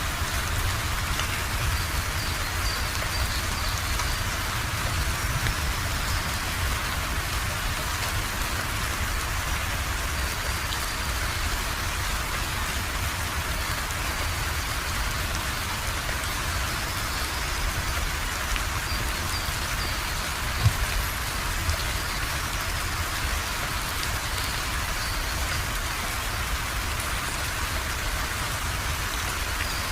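Steady rain falling, an even, unbroken hiss with a low rumble underneath. A single sharp tap stands out about two-thirds of the way through.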